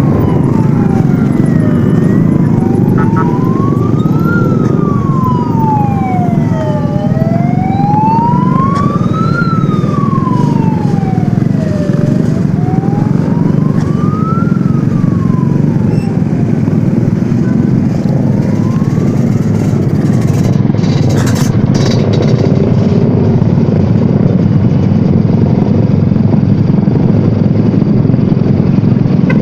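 Sirens wailing in slow rises and falls, two of them overlapping at first, over a loud steady rumble of traffic. The wail fades out about two-thirds of the way through while the rumble goes on.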